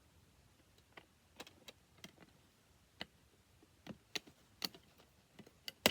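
Plastic DVD case and discs being handled: a scattering of faint, irregular clicks and taps, with one sharper click near the end.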